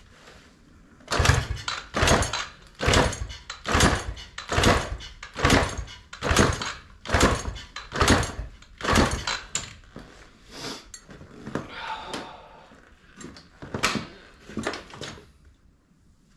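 Yamaha TTR90 engine being kick-started over and over without catching: about a dozen quick strokes a little under a second apart, then a few weaker ones near the end.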